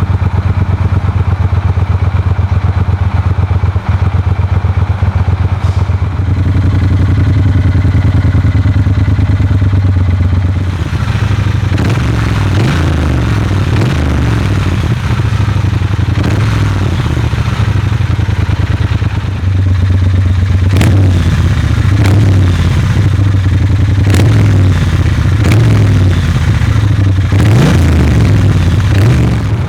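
Exhaust of a Triumph Bonneville T120's 1200 cc parallel twin with a 270-degree crank, decatted with a Motone Customs X-pipe and Vance & Hines pea-shooter silencers, running loud with a deep low note. The engine speed changes repeatedly in the second half.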